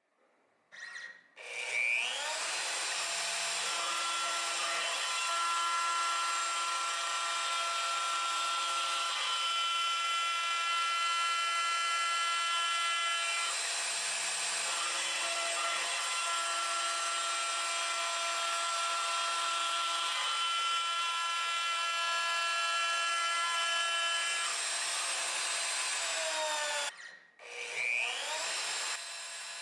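Router spindle on a desktop CNC spinning up with a rising whine, then milling a lock mortise in rosewood with a steady high whine whose tones shift slightly as the bit cuts. Near the end it stops briefly and spins up again.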